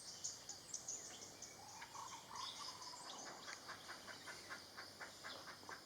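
Faint forest ambience of animal calls: a quick string of thin, high chips at first, then from about two seconds in a steady, rhythmic series of short notes at about three to four a second.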